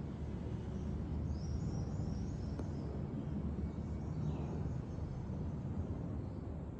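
Steady low rumble of outdoor background noise, with a few faint high bird chirps about a second and a half in.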